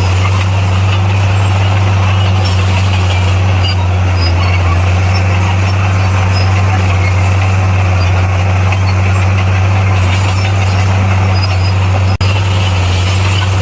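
Heavy diesel engine of a bulldozer running steadily with a deep, even drone. There is a brief break in the sound about twelve seconds in.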